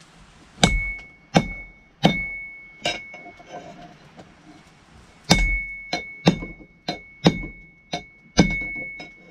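Hand hammer striking hot steel on an anvil: four blows, a pause of about two seconds, then about seven quicker blows. Each blow leaves the anvil ringing with a steady high tone.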